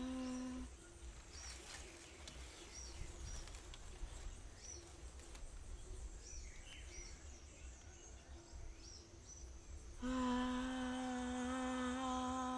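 A long, steady hummed note held on one pitch, cut short early on and sounding again for about the last two and a half seconds. Between the notes come faint high chirps about once a second over a low rumble.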